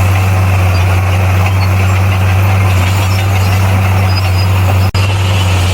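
Bulldozer's diesel engine running at a steady, even pitch. The sound cuts out for an instant about five seconds in.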